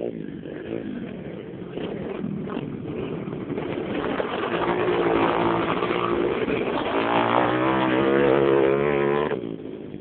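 Pit bike engine revving, getting steadily louder, with the pitch rising and falling over the last few seconds; the sound drops away sharply near the end.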